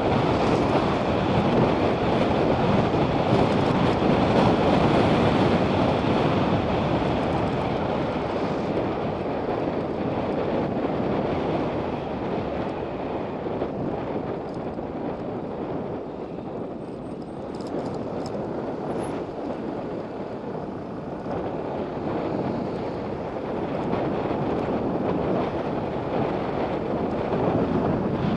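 Wind rushing over the microphone of a motorcycle on the move, mixed with road and engine noise. It eases off in the middle and builds again near the end.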